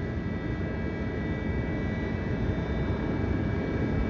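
Wind buffeting the microphone high on a crane tower: a steady low rumble, with a faint steady high tone over it.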